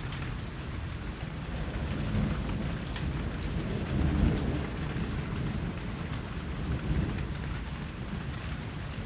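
Steady rain falling, with a low rumble of distant thunder that swells about four seconds in and again briefly near seven seconds.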